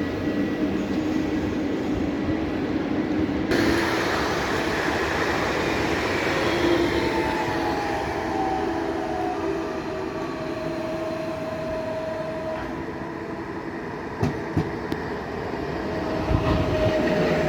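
A train running on the tracks, with steady whining tones that slowly slide in pitch over the running noise. The sound changes abruptly about three and a half seconds in, and a few sharp clicks come near the end.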